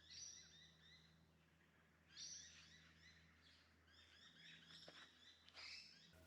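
Faint birdsong in open forest: quick runs of high chirping notes in three bursts, near the start, about two seconds in, and from about four seconds in, over a faint steady low hum.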